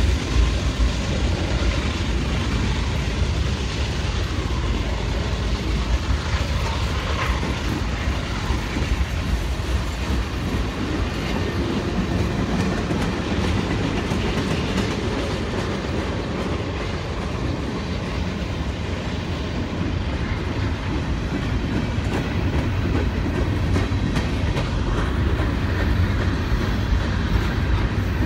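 Norfolk Southern freight train cars rolling steadily past, wheels clacking over the rail joints with a continuous rumble.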